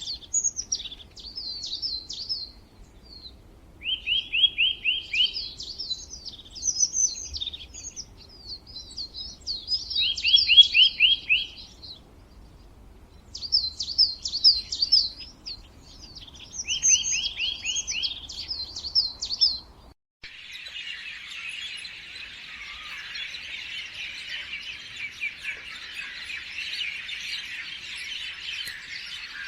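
A songbird singing repeated phrases of high chirps, each with a short, fast trill. About two-thirds of the way through, the sound switches abruptly to a dense chorus of many small birds chirping at once.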